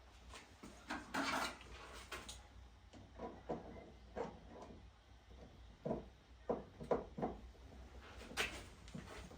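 Hands screwing a screw into the plastic body of a Kärcher K5 pressure washer during assembly: irregular clicks and knocks of tool and plastic parts, with brief scraping rustles about a second in and again near the end.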